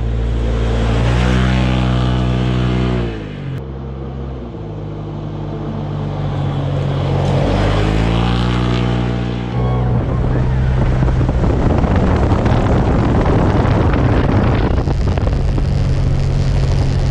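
Turbocharged Polaris RZR XP 4 Turbo side-by-side's twin-cylinder engine revving up and easing off twice while driving. From about ten seconds in it holds a steady drone under a loud rushing noise.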